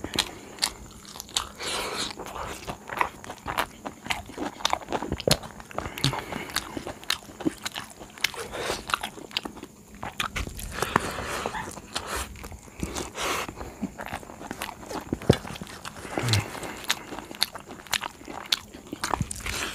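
Close-up eating sounds of a person chewing a mouthful of rice and stuffed okra, with wet smacking and many sharp, irregular mouth clicks and some crunching.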